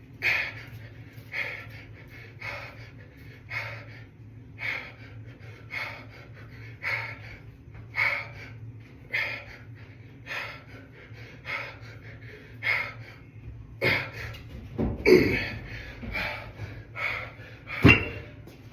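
A man breathing hard in regular puffs, about one breath a second, under the strain of a set of dumbbell hammer curls. Near the end come two louder sharp knocks, the first with a short low grunt.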